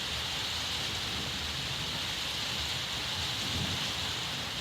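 Steady heavy rain falling: an even, dense hiss with no breaks.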